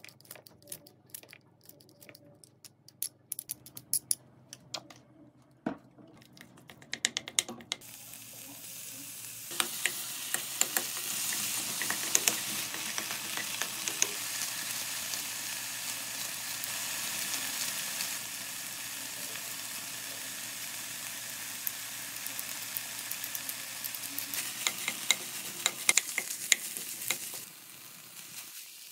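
Ground pork sizzling in a hot wok while a wooden spatula stirs and scrapes it. For the first several seconds, before the sizzling starts, there are quieter crisp clicks from a hand-held scissor chopper dicing zucchini.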